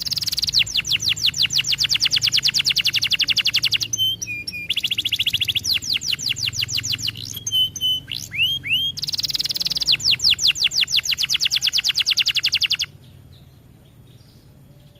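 Domestic canary singing loudly in three long bouts of very fast, rolling trills, with a few short rising whistled notes between the bouts. The song breaks off suddenly about two seconds before the end.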